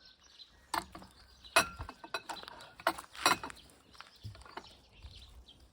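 Tableware clinking and knocking: four or five sharp strikes, one leaving a brief ring.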